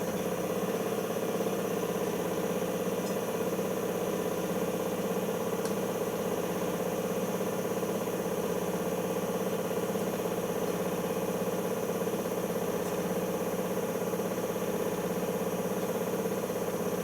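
Siemens iQ front-loading washing machine running with a steady, even mechanical hum during its spin-after-wash stage, with no rise or fall in pitch.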